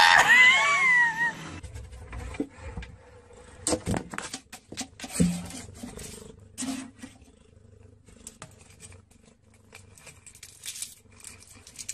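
A cat gives one loud meow that rises and then wavers, lasting about a second and a half. Quieter rustling and scattered taps and clicks follow.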